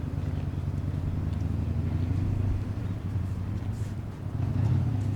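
Steady low hum of a vehicle engine, growing a little louder near the end.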